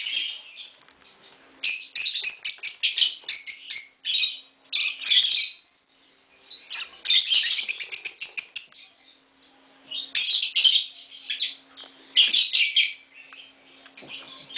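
Fischer's lovebirds chirping in rapid, high-pitched chatter, in several bursts of a second or two with short pauses between.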